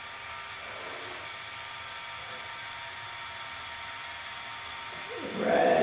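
Steady electric whir of the small Power Functions motor in a LEGO Technic Rough Terrain Crane 42082, running evenly.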